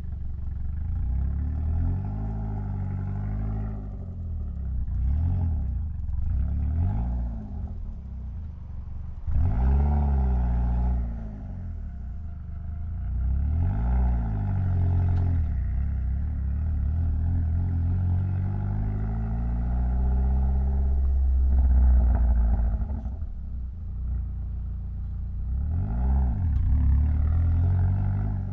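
Mitsubishi Lancer Evolution X's turbocharged 2.0-litre four-cylinder engine pulling and easing off through the gears, its pitch climbing and dropping again several times.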